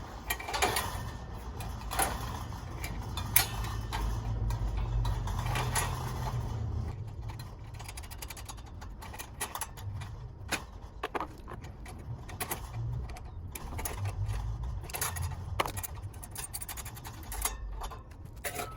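Scattered metal clicks, clinks and knocks from a steel bird cage and its feeder parts being handled and taken apart, over a low rumble.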